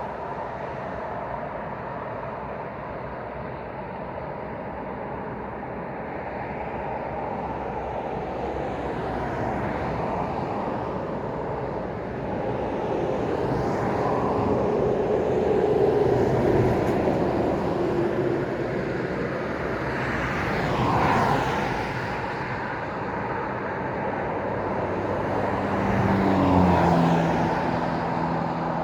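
Road traffic passing at night: a steady wash of tyre and engine noise, with several vehicles swelling up and fading as they go by, about halfway through, a few seconds later, and near the end. The last one carries a low steady engine drone.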